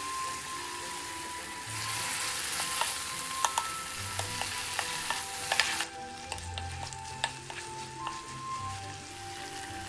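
Beef with sliced garlic and scallion sizzling in oil in a frying pan as soy sauce goes in, then stirred with a wooden spoon that knocks against the pan again and again. The sizzle grows louder about two seconds in and drops back a little past halfway.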